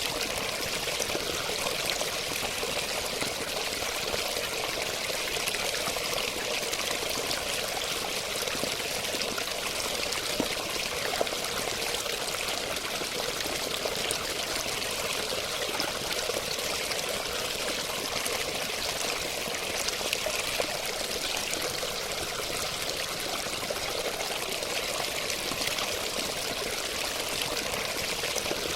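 Water running and splashing in a steady, unbroken stream, with a bright, hissing sound.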